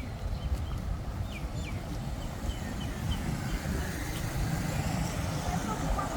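Road traffic on a city street: a steady rumble of passing vehicles that grows louder near the end, with a few faint high chirps in the first three seconds.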